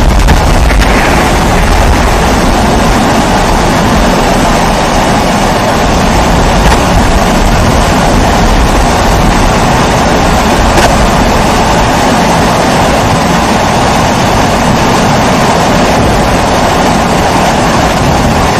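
Kerosene pressure stove (primus-type babour) burning steadily, giving a loud, even rushing rumble with no break.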